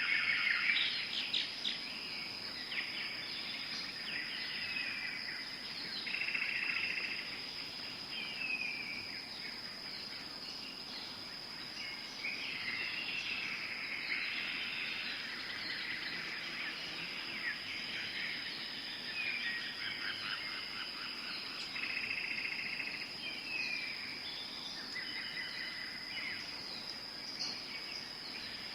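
Tropical forest ambience: a steady high-pitched insect drone with many bird calls and chirps over it.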